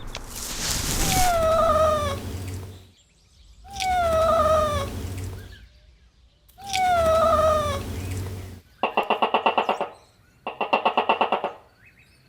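Horse calls repeated like a loop: three identical falling calls, each opening with a breathy rush. These are followed, starting about nine seconds in, by short bursts of rapid quavering whinnying.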